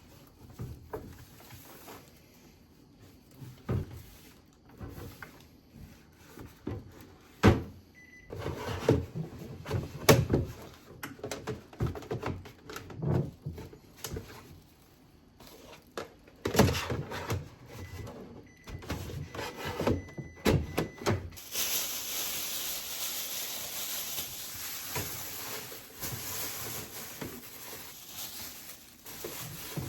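Household handling sounds while a refrigerator is being reorganized: irregular knocks, clicks and thunks of containers and packages being moved and set down, and drawers or doors opening and closing. About two-thirds of the way in, a steady rushing hiss starts and continues.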